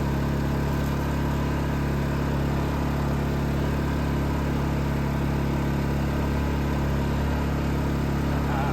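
Predator 2500 inverter generator's small single-cylinder engine running at a steady speed, an even hum with no change in pitch or level.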